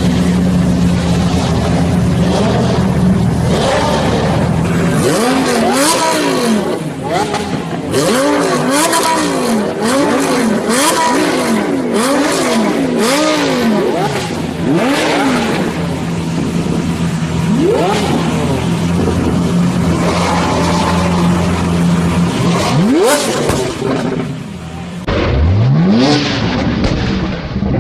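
Lamborghini sports car engines running loud at idle, one blipped in about ten quick rev-and-fall bursts in a row, then rising engine notes as cars accelerate away, two or three times near the end.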